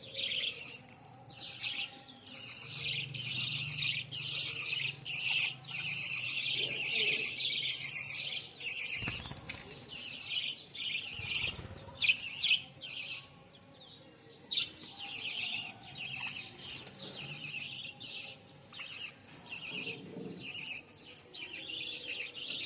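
A group of budgerigars chattering and warbling continuously, many overlapping chirps.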